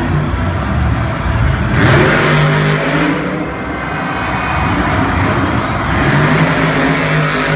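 Monster truck engine running loud, revving up twice, about two seconds in and again near the end.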